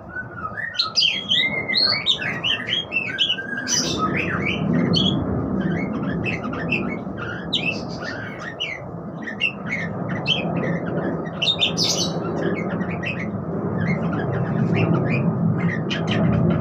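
Budgerigar chattering: a rapid, continuous run of short, varied chirps and squeaky warbles, over a steady low hum.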